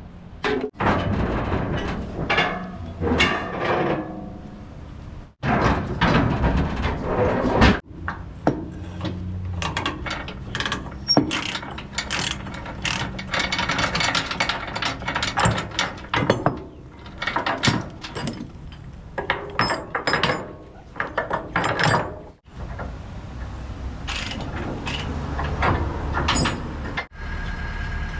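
Excavator at work: many clanks, knocks and scrapes of the steel bucket against rock, over the steady run of the diesel engine. The sound breaks off abruptly several times, in cuts between clips.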